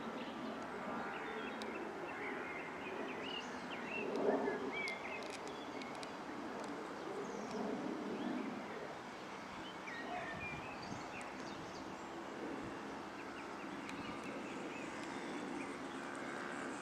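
Birds chirping now and then over a steady outdoor background noise.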